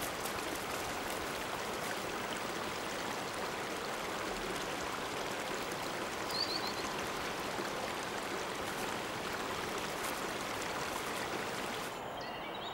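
Shallow mountain river running over a stony bed, a steady even rushing. About six seconds in, a brief high chirp of a few quick notes.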